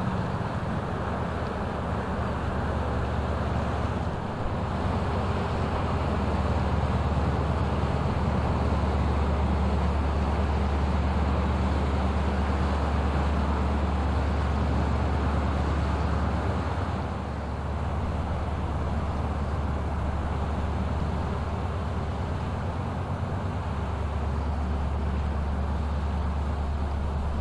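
Inland river ship's diesel engine droning steadily, a deep hum with a rushing noise over it, a little louder in the middle and easing briefly about seventeen seconds in.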